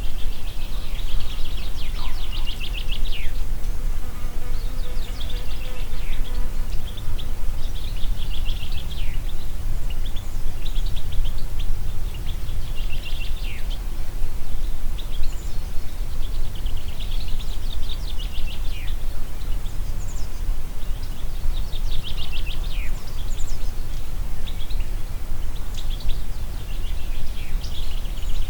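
Wind blowing steadily as a low rumble, with a small bird singing rapid trilled phrases over and over, a short pause between each, many ending in a quick downward sweep.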